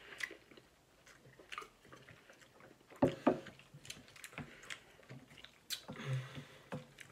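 Close-up eating sounds: chewing and small wet mouth noises, with scattered light clicks of chopsticks against a glass bowl.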